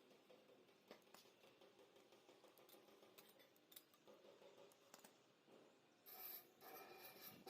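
Quiet hand work: faint scattered clicks and scrapes, with a brief louder scraping rasp about six seconds in.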